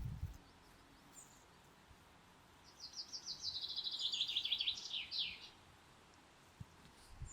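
A songbird singing one rapid trill of notes that falls in pitch, starting about two and a half seconds in and lasting about three seconds. A short low thump right at the start and a faint high chirp about a second in.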